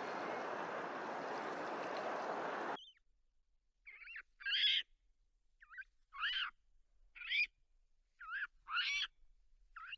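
A steady rushing noise cuts off abruptly about three seconds in. After a short silence comes a run of short, pitched animal calls, mostly in quick pairs about a second apart.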